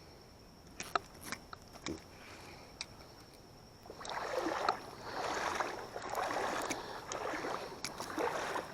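Fishing reel being worked during a cast and retrieve: a few sharp clicks, then a rhythmic swishing as the line is reeled in, repeating a little more than once a second.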